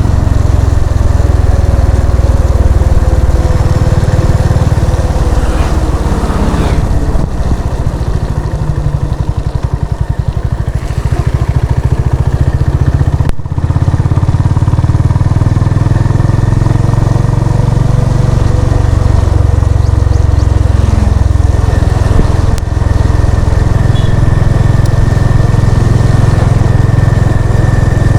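Honda CB350 RS single-cylinder engine and exhaust running steadily while riding, easing off for a few seconds about a third of the way in before pulling again.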